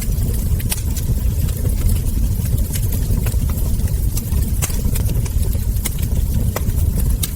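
Wood fire crackling: a steady low rumble of burning, with sharp pops and crackles from the logs and embers coming every second or so.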